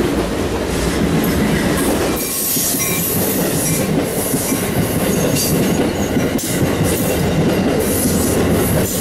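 A freight train's cars rolling past, then, after a cut about two seconds in, Amtrak passenger coaches passing close by. Steel wheels clack over rail joints, with thin high wheel squeals.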